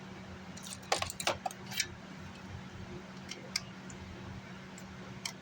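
Light, sharp clicks and taps of small hand tools working on an amplifier circuit board, a quick cluster about a second in and a few single ticks after, over a steady low hum.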